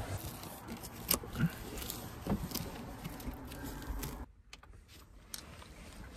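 Scattered clicks and knocks of things being handled over a low rumble, then an abrupt drop to quiet room tone about four seconds in.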